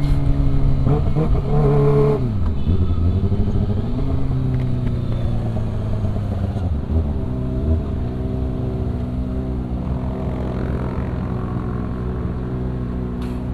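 Kawasaki ZX-25R's 249 cc inline-four engine running under way, its pitch dipping and picking up again several times, then holding steady and slightly quieter in the second half.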